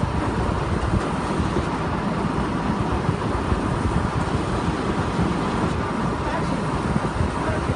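Truck-mounted rotary table water well drilling rig running steadily: a continuous low engine rumble with a faint steady whine above it.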